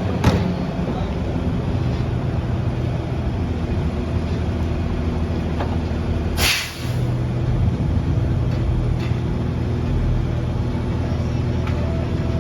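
CNG Mack LR garbage truck with a McNeilus rear-loader body running steadily, with a short, sharp air-brake hiss about six and a half seconds in.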